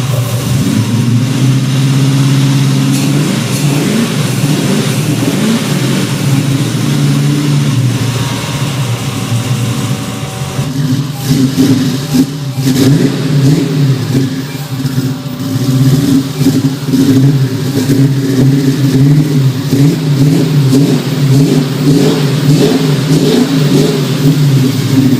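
Nissan VH45DE 4.5-litre twin-turbo V8 in a 1973 Ford XB coupe, running loud and being revved, its pitch rising and falling again and again, with quicker, repeated blips from about halfway on.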